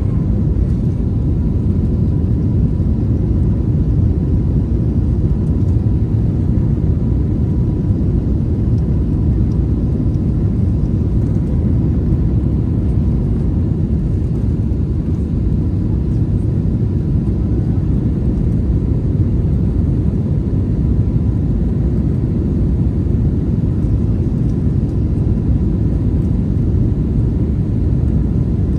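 Cabin noise of an Airbus A321neo airliner heard from a rear window seat: a steady low rumble of the engines and rushing air under power, with a faint steady whine.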